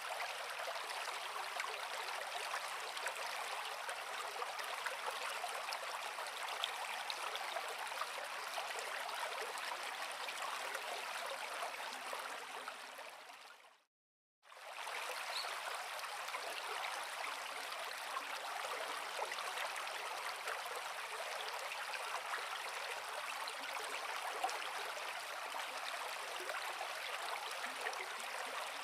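Creek water flowing over rocks in a steady, hissy rush. Just before halfway it fades out, drops to silence for a moment, then comes straight back at full level.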